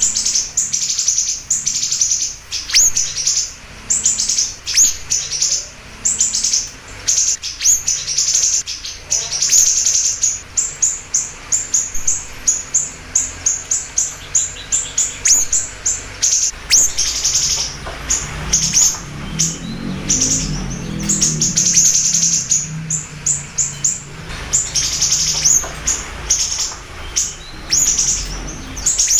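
Siri-siri bird singing energetically: rapid runs of short, high, sharp chirps repeated in quick succession, with brief pauses between runs. A low rumble sits underneath for a few seconds after the midpoint.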